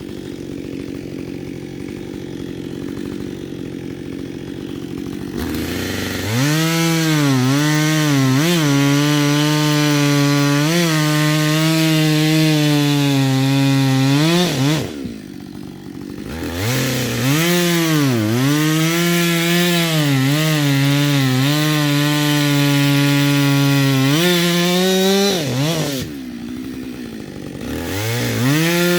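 Chainsaw idling, then revved and cutting through firewood about six seconds in, its pitch sagging and recovering as the chain bites under load. It drops back to idle twice, about halfway and again near the end, before cutting again.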